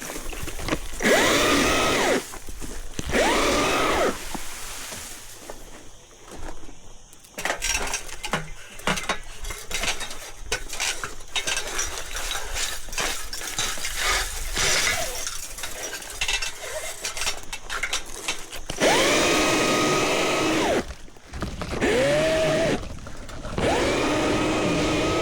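Battery chainsaw spun up in short bursts while cutting branches, each burst rising quickly to a steady whine and winding down after a second or two: twice early on and three times near the end. Between the bursts, a long stretch of snapping and crackling from branches and foliage being handled.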